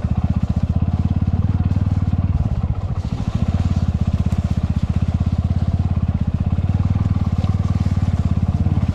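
Motorcycle engine running at low speed, a steady fast pulse of firing strokes, easing off briefly between two and three seconds in.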